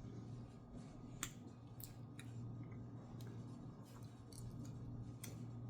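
Faint, scattered small clicks from people eating and handling snacks, about one a second, over a low steady hum.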